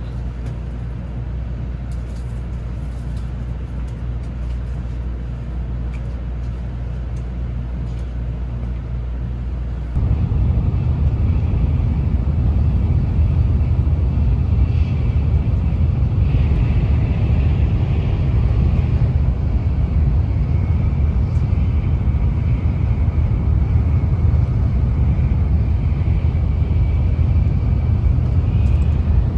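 A train running: a steady low rumble that steps up abruptly in level about ten seconds in. From the middle onward a faint high whine sits over it.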